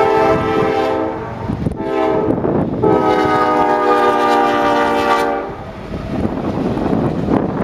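CSX freight locomotive's multi-chime air horn sounding: a blast ending about a second in, a short blast, then a long blast, the close of the grade-crossing signal. After the horn stops, the train rumbles past with wheel and rail noise.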